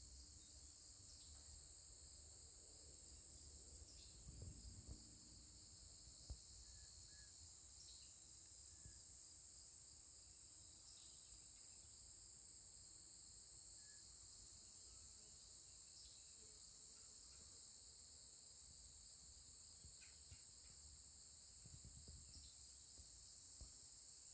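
High-pitched chorus of insects trilling, most likely crickets, with a steady thin tone. A louder, higher hiss switches on and off every few seconds.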